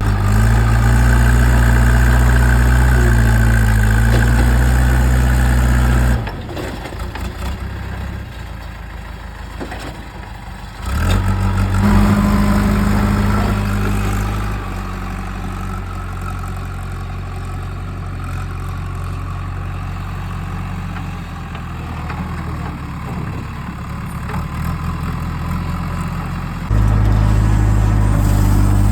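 Heavy diesel machinery engine running, its note wavering up and down under load. The sound drops suddenly to a quieter level about six seconds in, comes back loud about five seconds later, and steps up again near the end.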